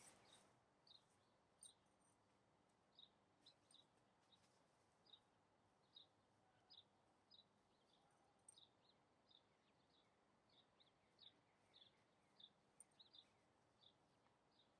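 Faint bird chirps, short single notes repeating irregularly about once or twice a second, over near-silent background, with a brief rustle at the very start.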